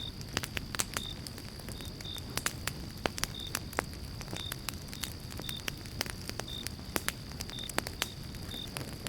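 Campfire of pine logs crackling, with sharp irregular pops several times a second over a steady low rumble of the flames.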